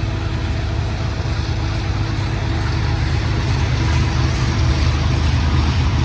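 Union Pacific diesel-electric locomotives passing under power on a manifest freight: a deep, steady engine rumble over constant rolling noise.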